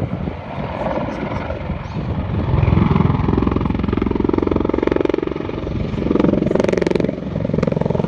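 Apache attack helicopter flying its display, its rotor blades beating in a rapid even pulse over the engine noise. It grows louder from about two and a half seconds in.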